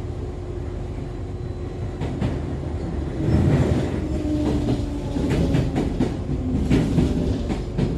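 Interior running sound of Echizen Railway MC6106, an ex-Aichi Loop Railway car with MT54 DC series-wound traction motors that is noted for an unusual running noise, heard from inside the cabin. The motor and gear tone falls steadily as the train slows for a station, with a run of wheel clacks over rail joints in the second half.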